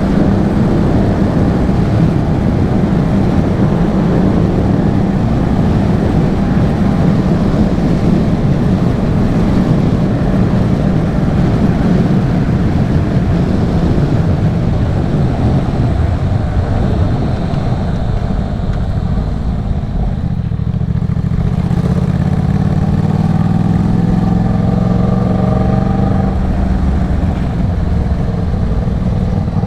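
Yamaha MT-07's parallel-twin engine running through an aftermarket Arashi exhaust as the bike is ridden. About two-thirds of the way through it eases off briefly, then pulls again.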